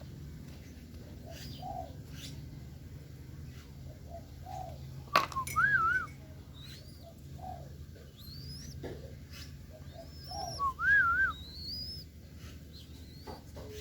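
Spotted doves cooing in short low calls about every three seconds, with another bird's higher warbling chirps twice. A sharp click just after five seconds is the loudest sound.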